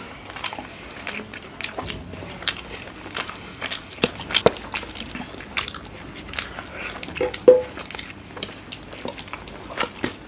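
People eating with their hands: irregular small clicks and smacks of chewing, biting and fingers on a plate, with one short louder sound about two-thirds of the way through.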